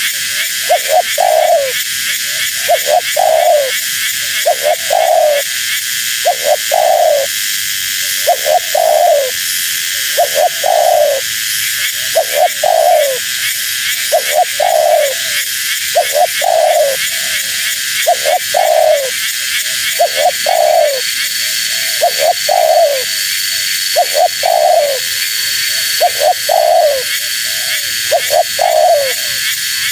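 Spotted dove (tekukur) cooing over and over in short coos, about one a second, each dropping slightly in pitch, over a steady high hiss.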